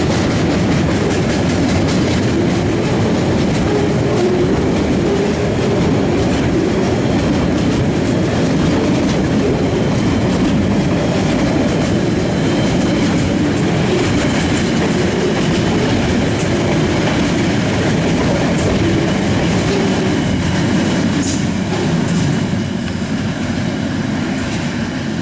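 Log train passing close by, with a loud, steady rumble and rattle and its wheels clicking over the rail joints. It starts to fade away near the end.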